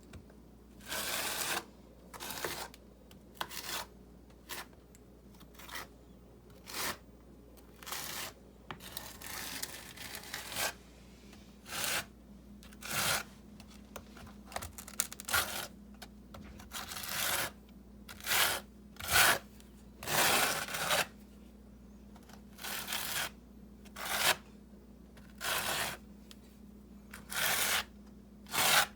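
Short, irregular scraping strokes in wet mortar, roughly one every second or so, from mortar and river rock being worked by hand for a fireplace hearth base. A faint steady hum lies underneath.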